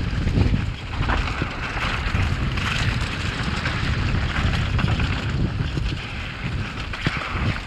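Wind buffeting the microphone of a camera on a downhill mountain bike at speed, a steady low rumble with tyre and trail noise, broken by a few sharp knocks as the bike hits bumps.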